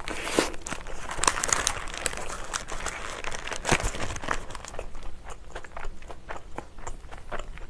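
Close-miked chewing of a mouthful of Burger King Monster Whopper, with the burger's paper wrapper crinkling in the hands. Wet clicks and crunches come thick in the first few seconds and thin out toward the end.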